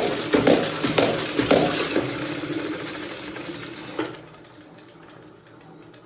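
Spin mop bucket's spinner basket rattling and whirring as its pedal is pumped about twice a second, then spinning down and fading out about four seconds in.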